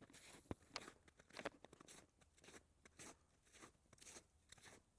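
Boots crunching through snow in a faint, uneven series of footsteps.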